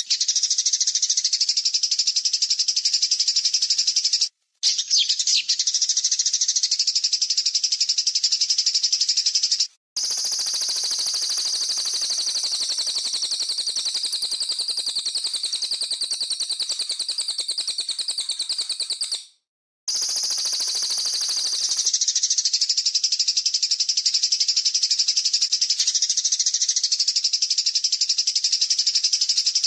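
Songbird training recording of harsh, rapid chattering calls packed densely together. It is cut into joined clips, with brief drop-outs about four, ten and nineteen seconds in.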